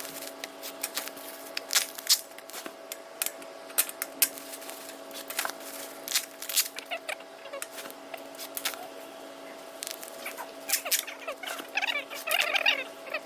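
Packing work on used tools: scattered light clicks and knocks of items and packing material being handled, over a steady hum, with a squeaky, scraping rustle near the end.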